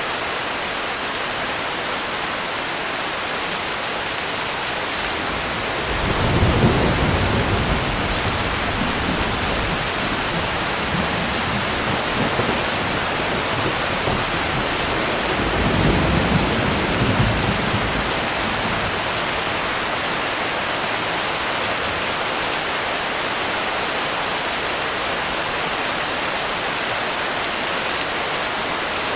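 Steady, heavy rain with two low rolls of thunder: one about six seconds in that rumbles for around three seconds, and a second around sixteen seconds in.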